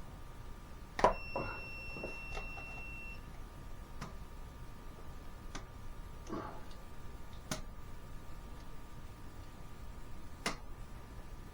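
Scattered, irregular clicks and knocks of hand work on hoses and plastic parts, over a steady low hum with faint steady tones. About a second in, the loudest knock comes with a high steady tone that lasts about two seconds.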